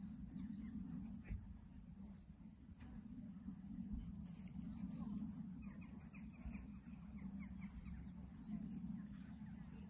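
Faint birds chirping in short scattered calls over a steady low rumble.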